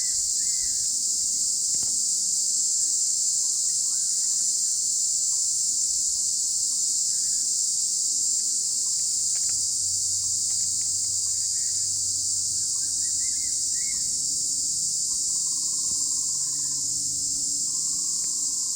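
Continuous high-pitched insect chorus, with faint scattered bird chirps beneath it.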